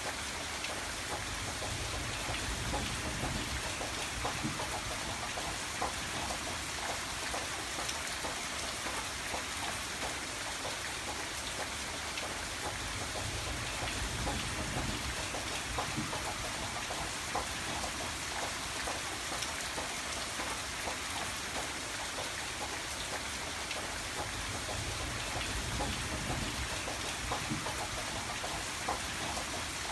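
Steady rain falling, with many close drops ticking on a surface over a continuous hiss and a soft low rumble that swells and fades every few seconds.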